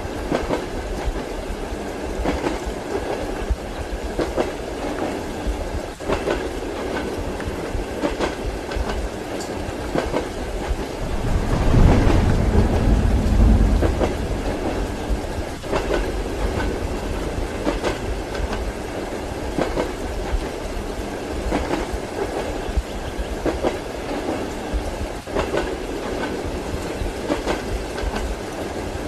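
Inside a moving passenger train carriage: a steady rumble with the wheels clacking over rail joints, with rain in the background. About twelve seconds in, a low rumble of thunder swells for a couple of seconds and fades.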